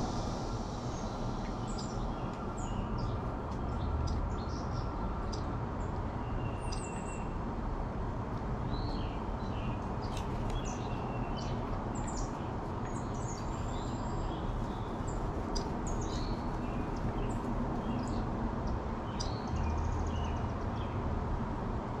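Wild birds chirping: many short, scattered calls over a steady low background hum.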